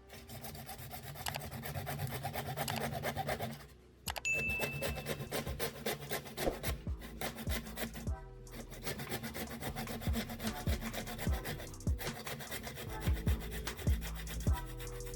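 Rasping, scraping hand-tool work on a workpiece in a dense run of quick strokes, pausing briefly about four seconds in and again around eight and twelve seconds. A short high ding sounds just after the first pause, and soft background music plays underneath.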